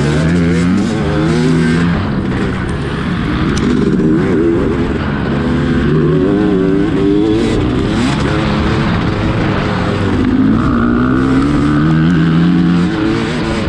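Dirt bike engine revving up and down over and over as the throttle opens and closes.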